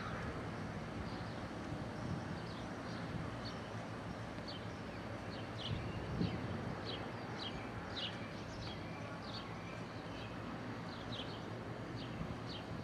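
A songbird chirps over and over in short, high, falling notes. Under it runs a steady low engine drone.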